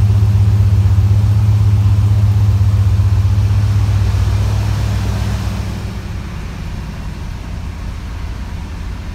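1980 Pontiac Turbo Trans Am's turbocharged 4.9-litre V8 idling, its exhaust a steady low note with even pulses. It becomes quieter about five seconds in.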